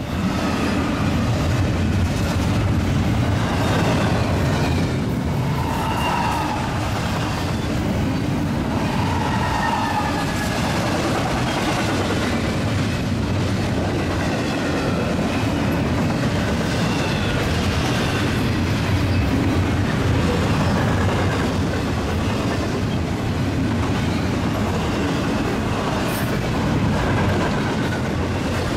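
Westbound Union Pacific double-stack intermodal container train passing at speed: a steady rolling noise of steel wheels on rail from the loaded well cars, with a few faint wavering higher tones from the wheels.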